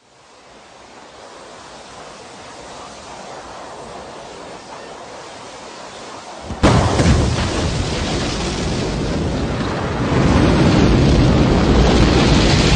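Rocket launch: a hiss swells gradually, then about six and a half seconds in a sudden loud roar of rocket engines sets in and keeps going, growing louder again near the end.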